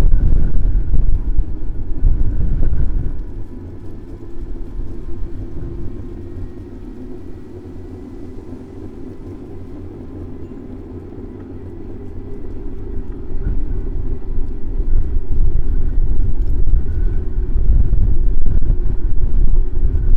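Low rumble of wind and road noise on the microphone of a bicycle-mounted camera riding through city traffic. It dies down about three seconds in and builds back up over the second half, with a faint steady hum beneath.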